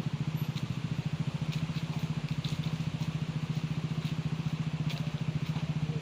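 A vehicle engine idling steadily with a fast, even pulse.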